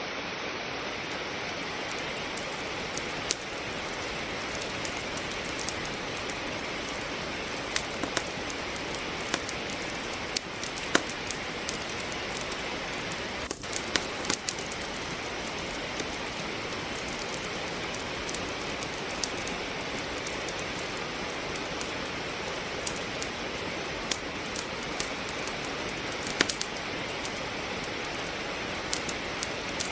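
Steady rain, with the irregular sharp pops and crackles of wood logs burning in a fireplace scattered over it.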